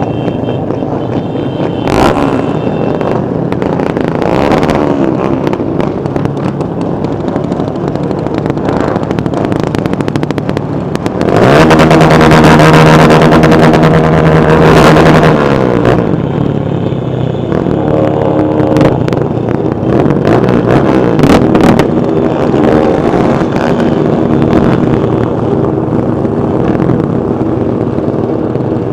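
Many motorcycle engines running as a stream of bikes rides past. Some way in, one engine comes up loud, holds its note for a few seconds, then drops in pitch as it goes by.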